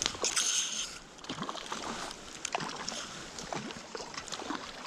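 River water splashing and sloshing while a hooked small brown trout is played in: a sharp knock and a short splash in the first second, then scattered small splashes and knocks over the steady run of the stream.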